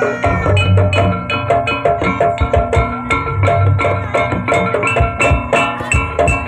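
Jaranan gamelan music: hand drums beating a quick rhythm under ringing metallophone and gong tones, with a deep gong-like tone sounding twice.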